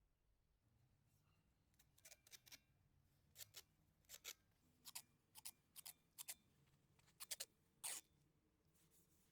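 About a dozen short, quiet scraping strokes, irregularly spaced and starting about two seconds in, over a faint steady low hum.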